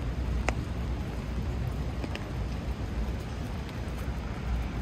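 Steady rain on a city street over a low traffic rumble, with a few sharp ticks of drops landing close by.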